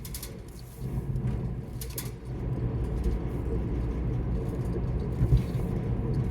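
Steady low rumble of a running car heard inside the cabin, with a couple of short sharp clicks and one low thump about five seconds in.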